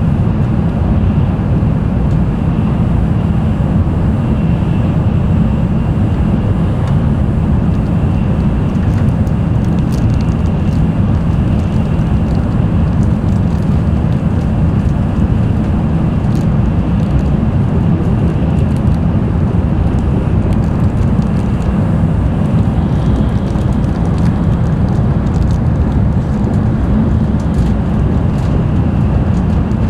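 N700-series Tokaido Shinkansen train running at speed, heard from inside the passenger cabin: a steady, even low-pitched running noise of wheels, rails and air that does not change in level, with a few faint high ticks scattered through it.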